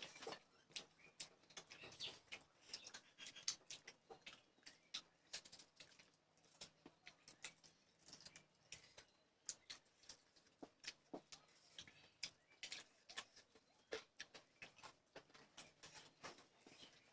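A person eating at the microphone: quiet chewing and wet smacking clicks from the mouth, several a second, irregular.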